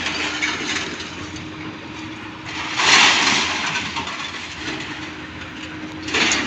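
Doosan excavator running steadily while working, with a louder rushing, hissing burst lasting about a second roughly three seconds in and another starting near the end.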